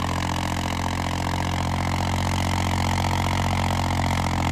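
Diesel tractor engine running steadily under heavy load while pulling a harrow set to full depth, labouring as it starts to bog down.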